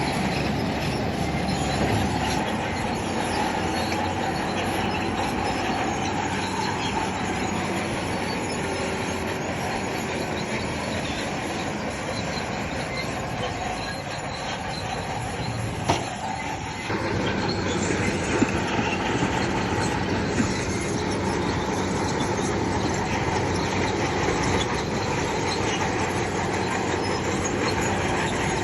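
Crawler bulldozer at work: its diesel engine runs steadily while its steel tracks clank and squeal. There is a brief dip with a sharp clank about two-thirds of the way through.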